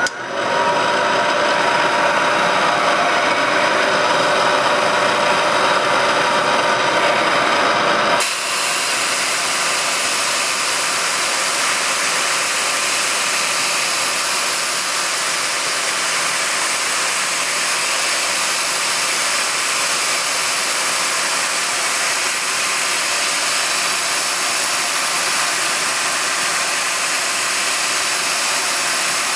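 A power tool running steadily, driving a cutter that trims a freshly installed spark-plug thread insert. About eight seconds in, the sound switches abruptly to a more even, hissier running.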